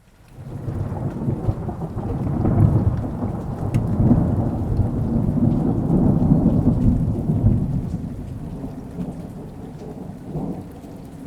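Thunder rolling over steady rain: a long low rumble that swells over the first couple of seconds, stays loud for several seconds, then slowly dies away.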